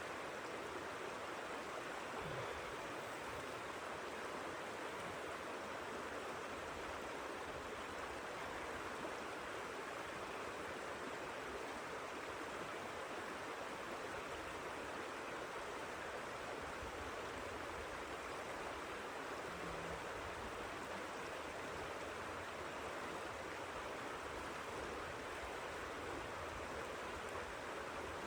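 Steady, even rushing noise that does not rise or fall.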